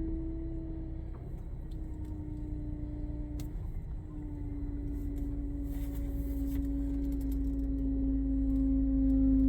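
Power steering whine from a 2012 GMC Acadia, a steady mid-pitched tone over the low rumble of the idling engine. It steps down in pitch about a second in and again a few seconds later, then slides slowly lower as it gets louder. The noise has persisted after the steering rack was replaced, and the owner suspects air was not properly bled from the system.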